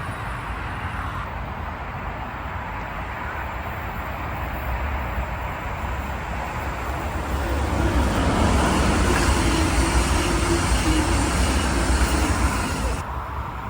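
A train passing on an electrified mainline. The rail and wheel noise builds up about halfway through, is loudest for a few seconds, and cuts off abruptly near the end.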